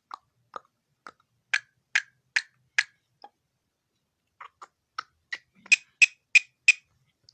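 Pet common myna making short sharp clicking calls, in two runs of about two to three a second with a pause between.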